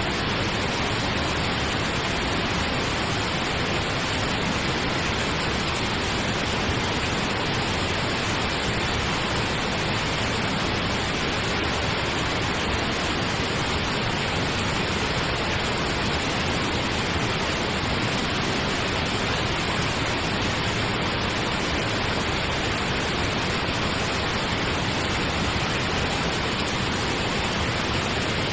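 Steady pink noise: an even, unchanging hiss with no rhythm or tone, played as a sleep aid.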